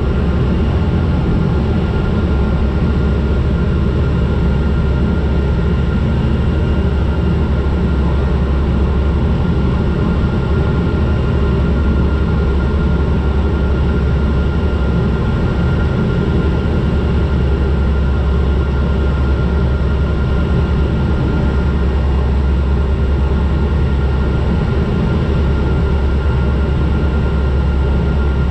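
Turboprop aircraft's engines and propellers droning steadily on final approach, with a thin steady whine above the low rumble.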